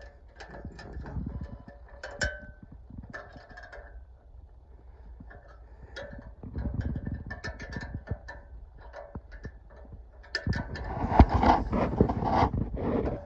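Metal clicks and clinks of a wrench working bolts on the underside of a steel sawmill log stop. A louder stretch of clattering handling noise starts about ten seconds in.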